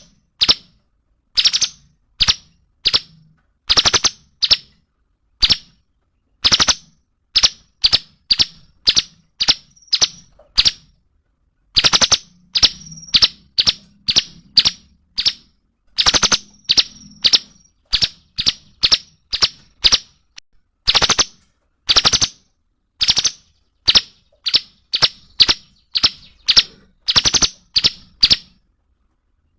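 A cungkok songbird calling loudly in a long series of sharp, clipped notes, one or two a second, now and then in quick runs of several; this is the rapid-fire 'gacor' calling kept as a masteran recording for songbirds to copy.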